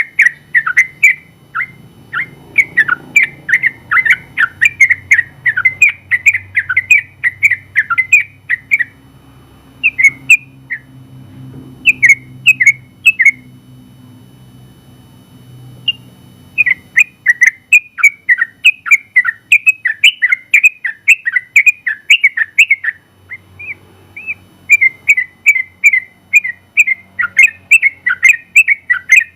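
Sooty-headed bulbul (trucukan) singing a fast run of short whistled notes, several a second. The run breaks into a few scattered notes partway through, then picks up again.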